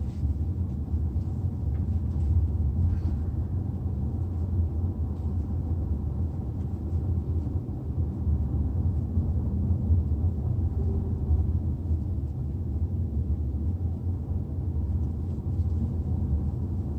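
Steady low rumble of road and engine noise inside a Hyundai Tucson (NX4) cabin as it drives along.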